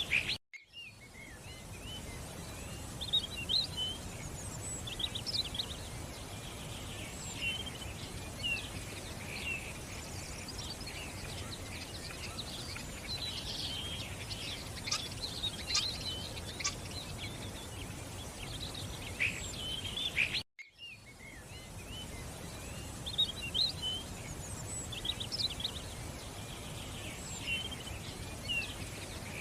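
Several small birds chirping and calling over a steady outdoor hiss. The sound cuts out briefly twice, about half a second in and about twenty seconds in.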